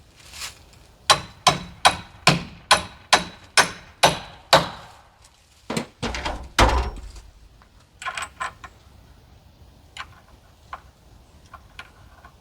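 Hammer blows, about nine in a steady run of two or three a second, followed by a few heavier knocks and then light scattered clicks.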